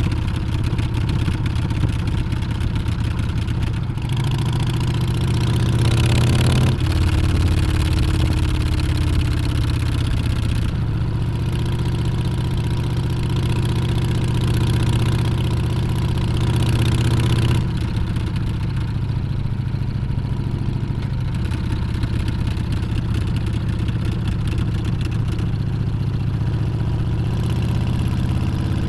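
Harley-Davidson Street Bob's Milwaukee-Eight V-twin running under way, its engine note climbing with throttle about five to seven seconds in, dropping back near the middle and shifting again near the end.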